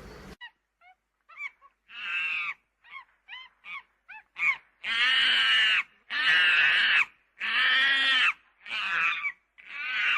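Monkey calls: a few short squeaky chirps, then a run of loud screeches of about a second each with short gaps between.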